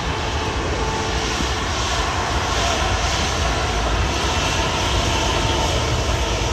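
Jet airliner engines, a steady loud rumble with a hiss on top.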